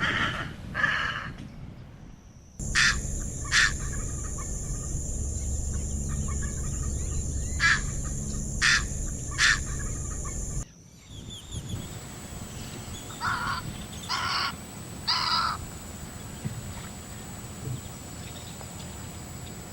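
Wild birds calling in two separate takes. First come five short, sharp calls spaced irregularly over about seven seconds, over a steady high-pitched hum. After a cut, three more calls follow close together.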